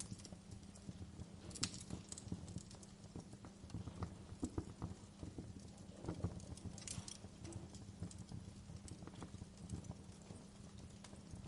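Wood fire in a fireplace crackling: irregular sharp pops and snaps of burning logs, a few louder ones, over a low steady rumble of the flames.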